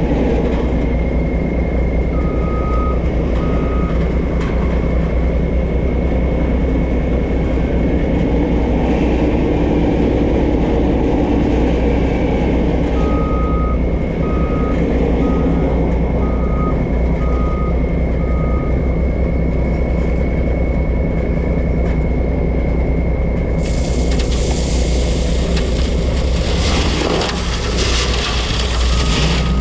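Heavy dump truck's diesel engine running steadily, with short runs of regular electronic beeping, about two beeps a second, twice. A loud hiss comes in about three-quarters of the way through.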